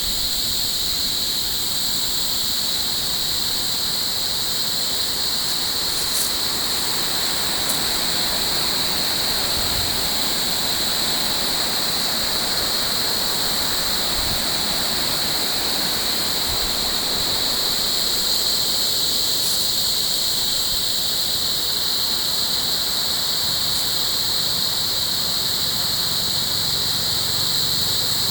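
Steady rushing of running water under a continuous high-pitched whine. A low hum comes in near the end.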